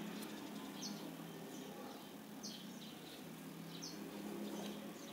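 Short high bird chirps repeat about every one and a half seconds over a low steady hum.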